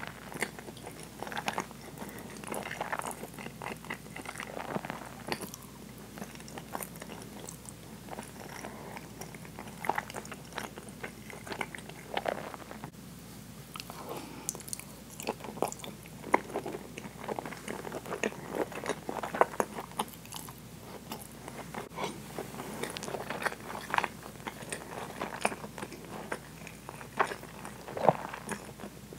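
Close-miked chewing and wet mouth sounds of a person eating soy-braised pork and rice, with many small clicks and smacks throughout.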